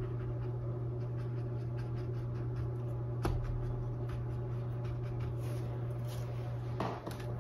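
Soft, irregular taps of a paintbrush stippling paint onto a stretched canvas, with one slightly louder click about three seconds in, over a steady low electrical hum.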